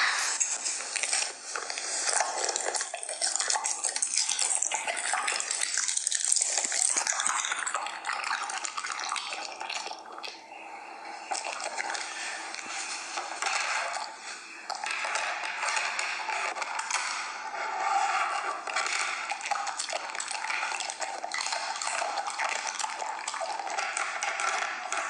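A dog licking and lapping wetly from a bowl, close to the microphone: a dense, unbroken run of small wet smacks and clicks.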